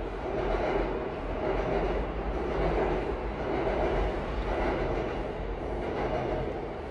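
A train passing, heard from inside a parked car as a steady rumble.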